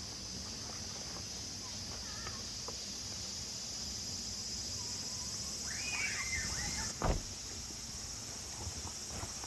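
Steady high-pitched insect chorus, with a short high whine about six seconds in and a single thump about a second later.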